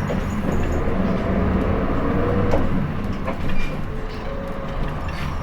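Diesel engine of a Hino Blue Ribbon City city bus pulling away from a stop, heard from inside the cabin: a steady low running sound with brief rising whines as it accelerates, and small rattles and clicks.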